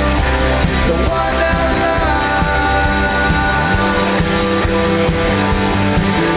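Live rock band playing an instrumental passage, with guitars, bass and drums holding chords. The chords change about four seconds in.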